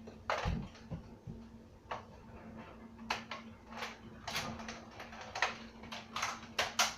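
A string of irregular clicks and knocks, more frequent in the second half, over a faint steady hum.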